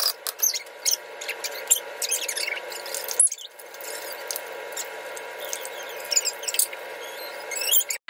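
Pork chops frying in hot oil in a skillet: a dense sizzling crackle that breaks off briefly about three seconds in.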